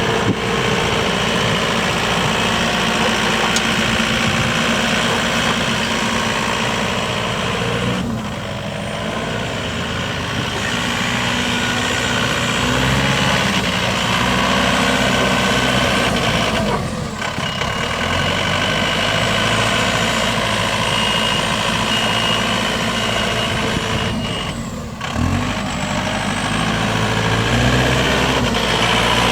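John Deere 4720 compact tractor's diesel engine running, its engine speed shifting a few times, with brief dips in level.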